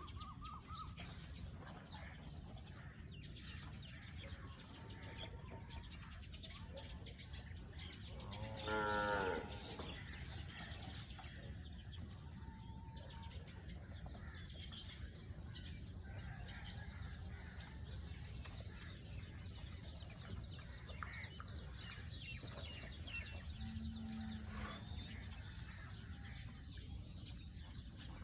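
A cow mooing once, about a second long, about a third of the way in, over steady low background noise.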